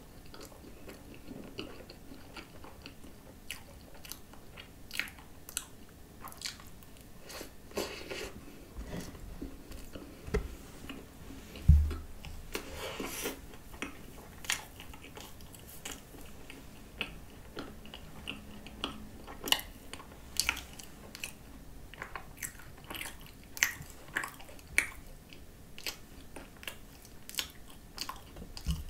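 Chewing and biting a flaky croissant piece topped with whipped cream and coconut spread: soft crunches and wet mouth clicks throughout. One loud thump about twelve seconds in, followed by a brief paper-napkin rustle.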